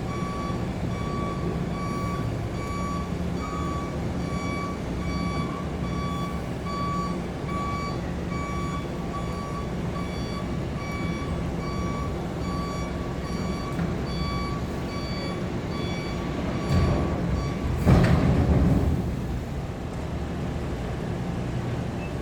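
Heavy vehicle's reverse alarm beeping about twice a second over a steadily running diesel engine, during unloading from a ship. The beeping stops near the end, and a loud rush of noise follows.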